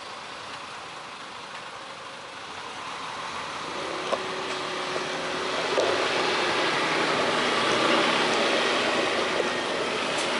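Road and traffic noise heard from a bicycle-mounted action camera, swelling to a steady louder level over the first half.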